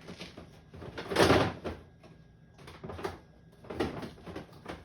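Handling noises from clearing out a refrigerator: a loud rustling clatter about a second in, followed by several smaller knocks and rustles of containers and fridge drawers or shelves.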